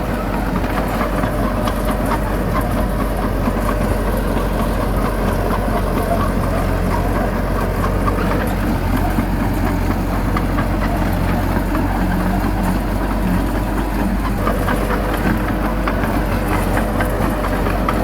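Bulldozer's diesel engine running steadily, with light clattering throughout.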